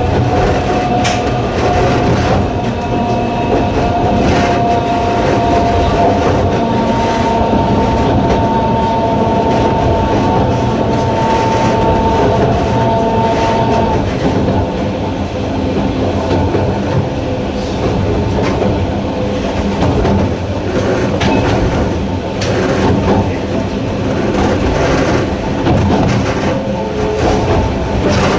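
Sangi Railway Hokusei Line narrow-gauge electric train running, its wheels clattering over the rails. The nose-suspended traction motors give a steady whine that fades out about halfway through.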